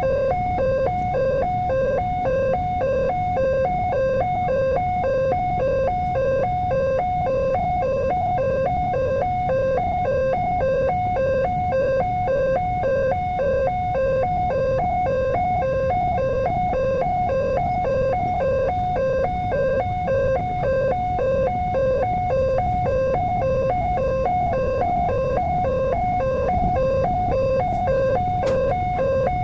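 Railway level-crossing warning alarm sounding without a break: an electronic two-tone signal that alternates quickly and evenly between a lower and a higher note, the warning that a train is approaching and the crossing is closed. A low rumble runs underneath.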